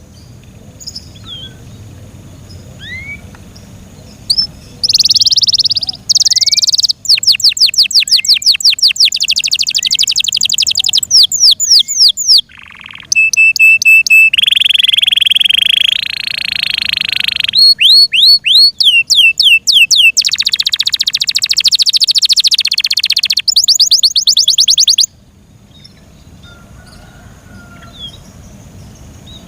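F1 Yorkshire-cross canary singing: a few single rising chirps, then a loud twenty-second song of rapid repeated trills, quick sweeping notes, a short held whistle and buzzy rolls that stops abruptly, followed by scattered chirps.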